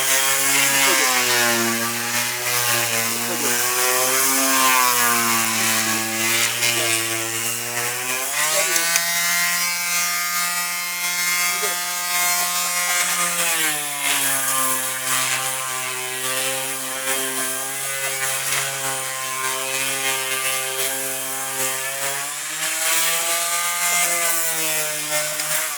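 Electric power tool running continuously on wood, its motor pitch dropping under load and rising when eased off: higher at about 8 seconds in, lower again from about 14 seconds, and higher once more near the end. It stops abruptly at the end.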